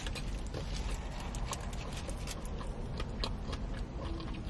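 A person chewing a mouthful of cheeseburger close to the microphone: a steady run of small, irregular mouth clicks and smacks.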